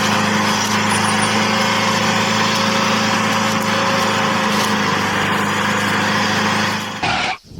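Mini tractor's small engine running steadily with an even hum, cutting off about seven seconds in.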